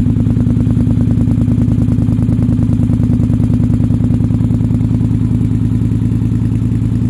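Polaris Sportsman 850 XP ATV's twin-cylinder engine idling steadily through a Big Gun slip-on exhaust, with an even, rapid exhaust pulse.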